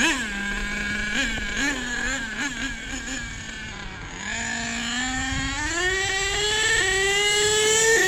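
Small nitro RC truck engine running with a high buzz. It gives a few short throttle blips, then its pitch climbs steadily as the truck accelerates away.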